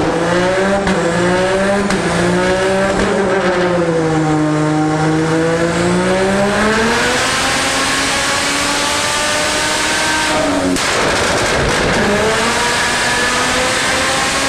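Turbocharged 3.4-litre stroker 2JZ straight-six in a drift car running under load on a chassis dyno. The engine note dips early on, then climbs steadily in revs. About ten seconds in it drops sharply with a few crackling pops, then climbs again.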